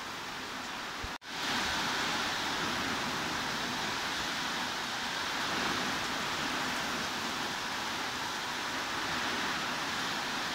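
Heavy rain falling as a steady, even hiss. About a second in it drops out for an instant and comes back slightly louder, like a splice between two takes of the recording.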